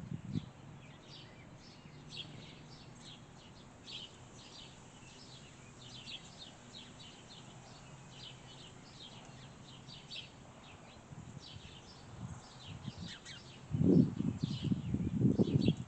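Small songbirds giving many short, high chirps, over a faint outdoor background. About fourteen seconds in, a burst of low rumbling thuds takes over as the loudest sound.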